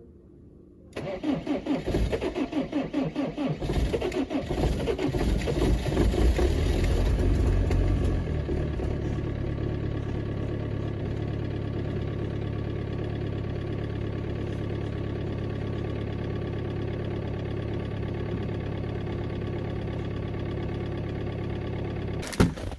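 BMW diesel engine cold-starting in deep frost: the starter cranks with rhythmic pulses for about three seconds, the engine catches and revs up, then settles into a steady idle.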